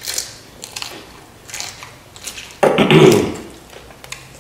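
Close-miked eating: mouth sounds of chewing loaded Flamin' Hot Doritos nachos, with short scattered crunches and smacks and one loud, short burst of crunching about three seconds in.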